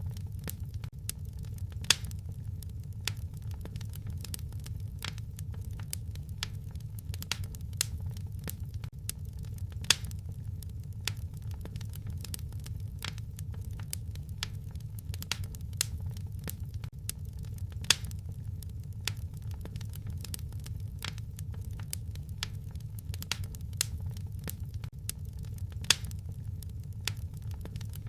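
Wood fire crackling in a fireplace: a steady low rumble of burning under constant small crackles, with a louder pop about every eight seconds.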